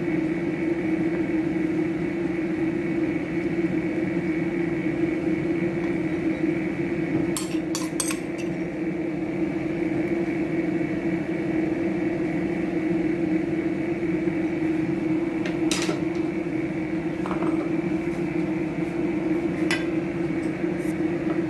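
Dishes and utensils clinking a few times, in two quick knocks about seven and a half seconds in and single ones near sixteen and twenty seconds, over a steady hum.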